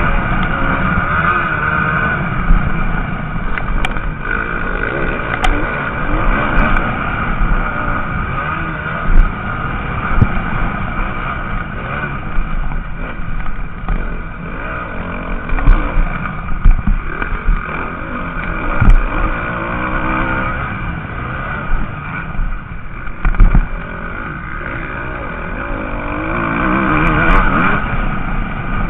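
MX2-class motocross bikes racing, their engines revving up and down through the gears as they pass. Several short low thumps come through the microphone.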